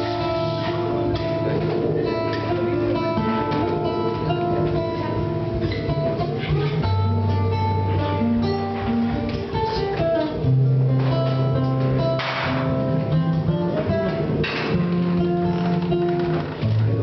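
Music led by acoustic guitar, strummed and plucked, over long held bass notes that change every second or two.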